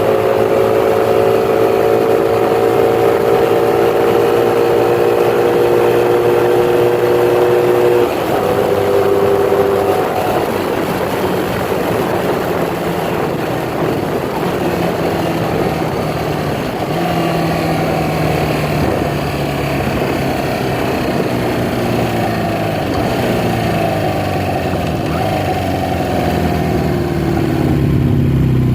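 1982 Honda Magna V4 engine running through new Emgo aftermarket mufflers under way. Its pitch climbs slowly, drops suddenly about eight seconds in, then rises and falls in steps with the throttle.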